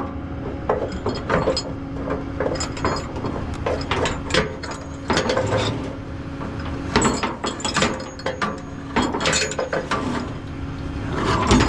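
Repeated ratcheting clicks and metal clanks, irregular in timing, over a steady low hum.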